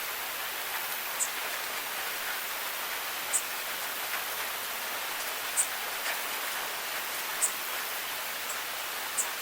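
Steady rain falling, an even hiss, with five sharper single drop hits standing out about every two seconds.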